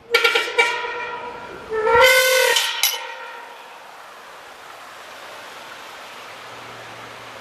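A train horn sounds in two blasts, the second starting a little lower and rising. After it comes steady wind noise on the microphone.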